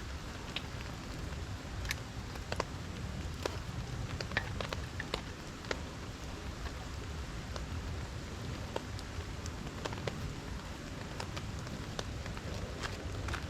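Steady rain falling, with individual drops ticking sharply every so often over a low rumble.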